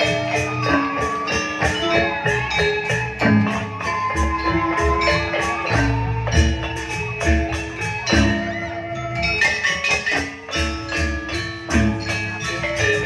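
Live gamelan music: struck metallophones play rapid ringing notes over deep low drum strokes.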